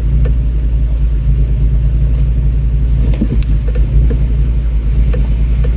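Ford Bronco's engine running at low speed, a steady low rumble, as it crawls along a rough off-road trail. A few light knocks and clicks come through over the rumble.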